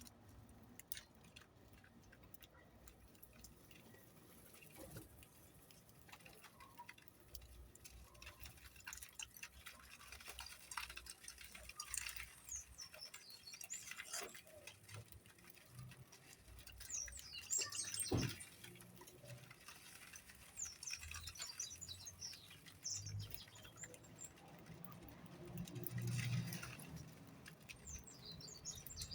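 Small birds chirping faintly in short high bursts, with scattered light clicks and taps.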